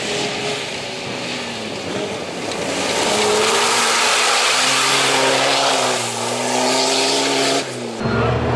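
Off-road race vehicle's engine running hard, its pitch rising and falling as it revs, under a loud rushing hiss. The sound changes abruptly near the end.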